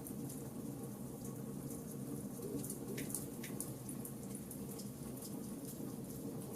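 Charcoal campfire burning: a steady low rush with small crackles and pops scattered throughout, two of them stronger a little past halfway.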